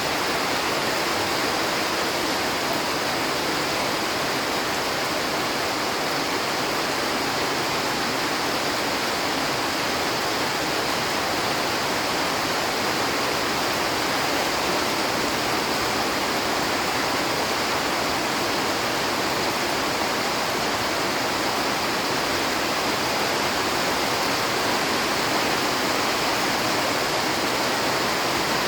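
Rain pouring down steadily, a dense even hiss with no breaks.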